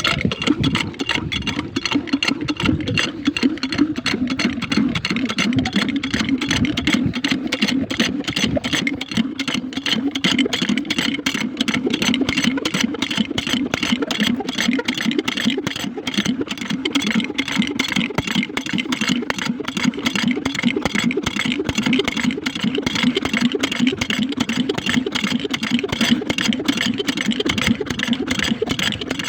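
Small diesel engine driving a water pump, running steadily with a fast, even firing beat.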